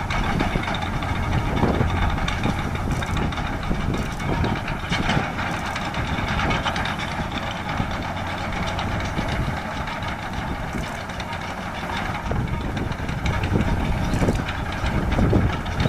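A ship's diesel engine running with a steady low drone.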